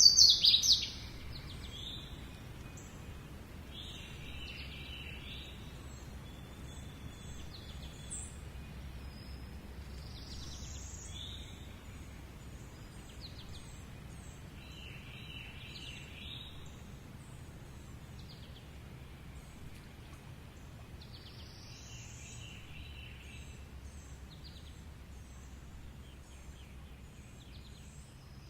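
Birds chirping and calling in short trills that recur every few seconds, with one loud high call right at the start, over a steady low rumble.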